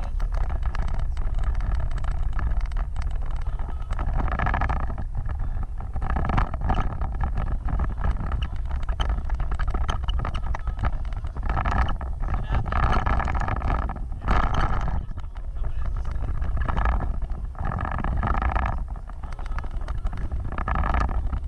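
Off-road vehicle driving, its engine running as a steady low rumble, with wind buffeting the microphone.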